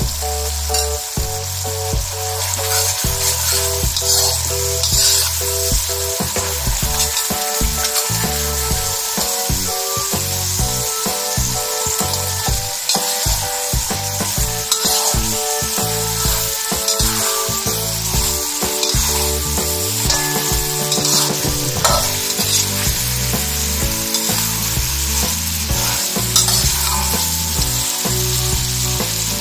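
Sweet soy sauce with sliced onion sizzling and bubbling in a hot pan, crackling steadily while a spatula stirs. Fried chicken pieces are added partway through and stirred through the sauce, so the sizzling goes on under the stirring.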